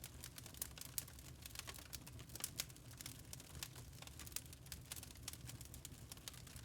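Wood fire in a fireplace crackling: irregular sharp pops and snaps of burning logs, several a second, over a steady low rumble.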